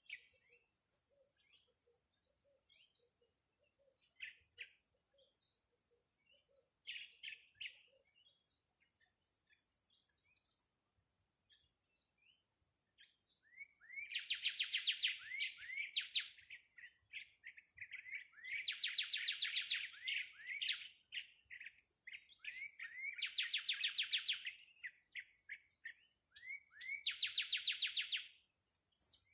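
A songbird singing: loud phrases of quick rising notes running into a fast trill, each about two seconds long and repeated every few seconds, starting about halfway through. Before that, only faint scattered chirps and a soft repeated low note.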